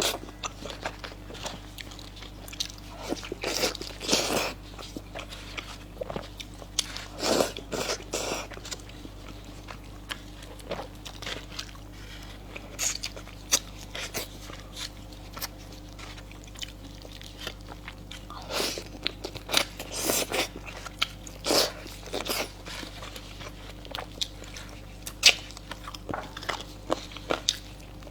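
Close-miked eating: a person biting and chewing noodles and food, with irregular wet crunchy clicks and louder bursts of eating now and then.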